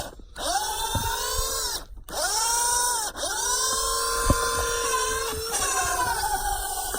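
Traxxas Rustler 2WD radio-control truck's electric motor and drivetrain whining under throttle as it plows through snow. The pitch rises sharply at each blip of throttle; the whine cuts out briefly about two and three seconds in, then holds and eases slightly lower near the end.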